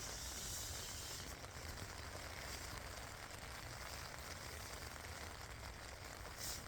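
Steady hiss of rain falling in a forest, a little stronger in the first second and with a brief louder spatter near the end.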